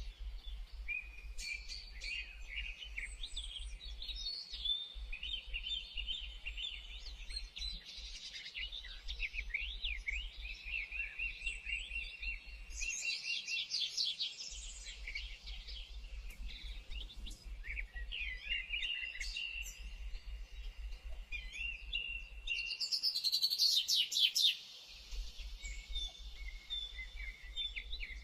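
Songbirds chirping and singing in many overlapping short calls and trills, with a louder, rapid run of notes about 23 seconds in. A low steady hum runs underneath and drops out twice.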